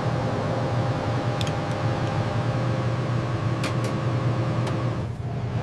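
Steady hum and whir of running machinery, with a strong low drone and faint steady tones above it. It starts suddenly and falls away about five seconds in, with a few faint ticks along the way.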